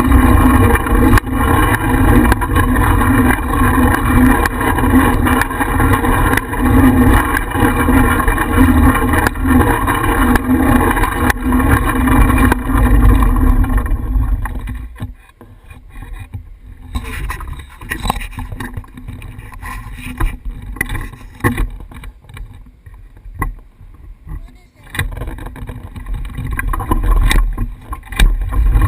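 Steady riding noise of a bicycle in motion, picked up by a GoPro mounted on the bike: wind across the microphone and tyre and road noise with a low hum. About halfway through it drops away to a quieter, patchy level, and it comes back loud near the end.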